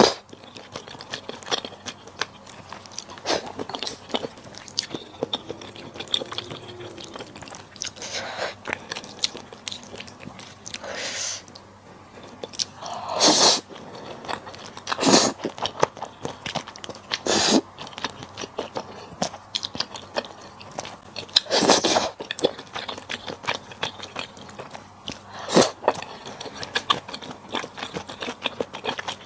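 Close-miked eating of malatang: irregular chewing and crunching mouth sounds, with about half a dozen louder, sharper mouth sounds spread through.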